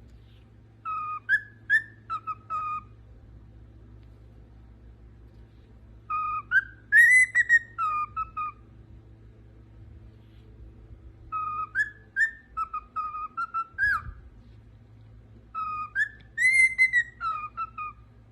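Parrot whistling a short tune of clear, bouncing notes, repeated four times with pauses between the phrases.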